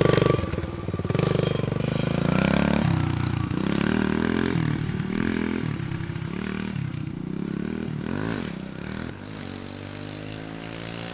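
Dirt bike engine revving as the rider pulls away, its pitch climbing and dropping again and again, then running steadier and fainter for the last couple of seconds as the bike moves off.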